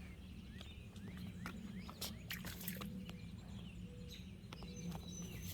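Scattered short bird chirps over a steady low rumble, with a few faint clicks.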